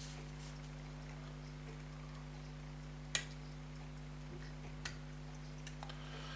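A few sharp light clicks of small metal parts, the loudest about three seconds in, as a fusee pocket watch and its case are handled. A steady low hum runs underneath.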